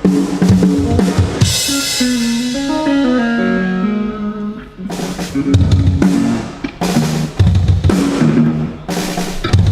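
Heavy metal band playing at full volume: a drum kit with kick and snare and distorted electric guitar. A held, sliding guitar line fills the middle seconds, then heavy repeated chords land together with the drums from about five seconds in.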